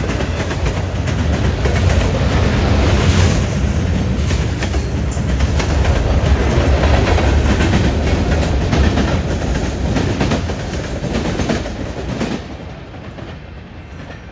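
Freight train cars rolling past with wheels clacking over the rail joints and the junction switch. The sound falls off about twelve seconds in as the train moves away.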